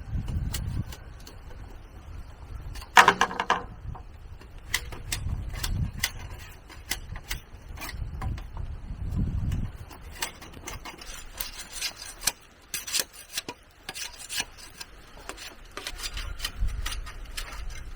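Bamboo or wood being worked by hand: rubbing and scraping with many scattered clicks and knocks, and one louder, ringing knock about three seconds in.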